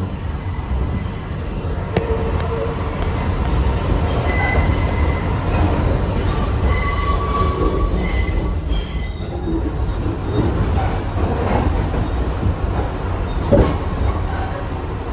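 Kawasaki R62 subway car running on its rails with a steady low rumble, its wheels squealing in several high, held tones through roughly the first nine seconds. A sharp click stands out about two seconds in and another near the end.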